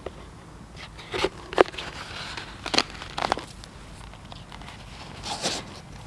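Knife spine scraped down a ferrocerium fire steel in about five quick, sharp strokes, throwing sparks onto silver birch bark to light it.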